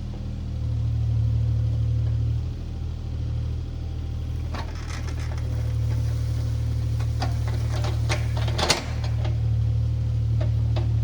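Diesel engine of a compact earthmoving machine running steadily under work, with scattered clanks and rattles from about halfway and one sharp knock near the end.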